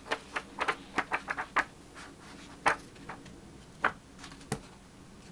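Sharp clicks and taps from objects being handled by hand: a quick run of them in the first second and a half, then a few single ones spaced out.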